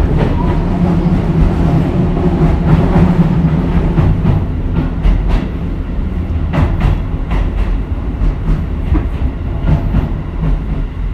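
Keisei 3000 series electric train running on rails: a steady low rumble with clicks of the wheels over rail joints, the rumble easing a little in the second half.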